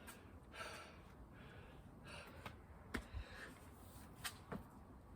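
A person breathing hard in soft gasps and exhales, winded from a long burpee and chin-up workout, with a few faint clicks or knocks.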